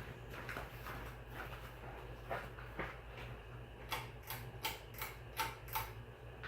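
Hampton Bay Palm Beach 48-inch ceiling fan running with a low, steady motor hum and scattered light ticking. About four seconds in, the ticks sharpen into an even run of about three a second.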